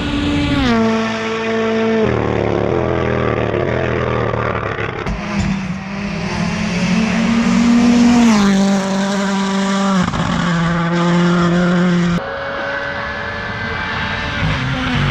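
Rally1 rally cars' turbocharged engines running hard, the engine note dropping sharply several times as they brake and shift down. The sound switches abruptly a few times from one car to another.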